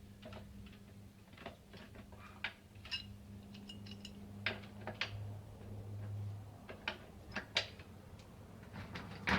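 Hand tool clicking and knocking against the metal fittings of an old electric water heater in irregular short strikes, as a seized part is worked at without coming loose. A steady low hum runs underneath.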